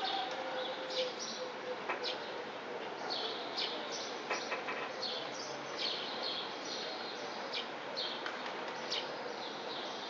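Small birds chirping, short high calls repeating a couple of times a second, over a steady background hiss.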